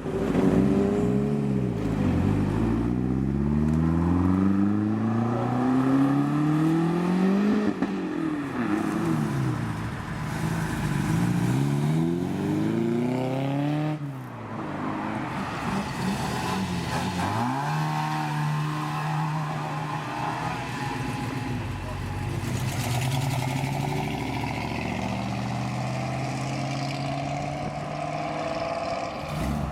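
Cars pulling away one after another, their engines revving hard. The engine note climbs for several seconds, drops sharply at each gear change, then climbs again.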